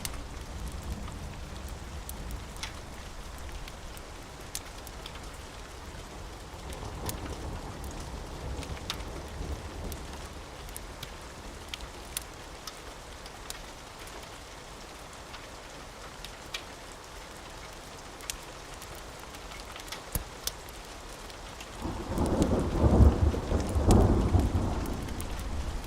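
Steady rain with scattered sharp pops. Near the end a loud, low roll of thunder rises and fades over about three seconds.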